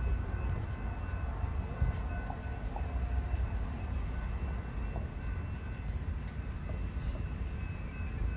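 Passenger train at a station platform, its diesel locomotive giving a steady low rumble with a faint steady whine above it.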